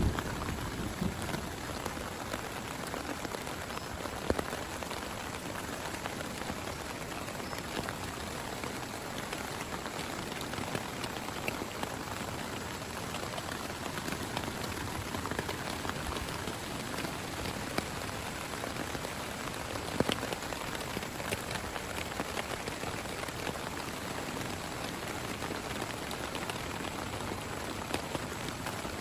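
Heavy rain falling steadily, with many individual drops ticking close to the microphone and one louder drop about twenty seconds in.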